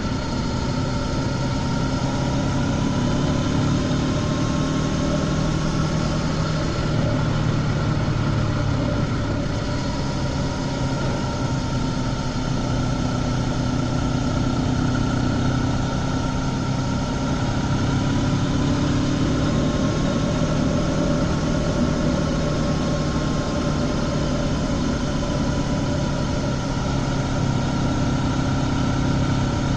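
Honda CB500X's parallel-twin engine running steadily through its stock exhaust while cruising on an open road, its pitch rising and falling gently with small throttle changes, with rushing wind noise.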